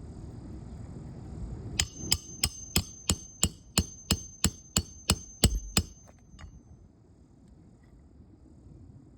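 Hammer driving a roofing nail through an asphalt shingle: about a dozen quick, evenly spaced blows, roughly three a second, starting about two seconds in with a metallic ring, then a couple of lighter taps as the nail seats.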